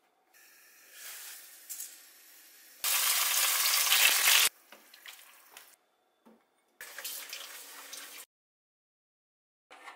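Chopped tomato sizzling in hot oil in a wok, a loud even hiss from about three seconds in that cuts off sharply a second and a half later. Quieter kitchen noises come before and after it, with a moment of silence near the end.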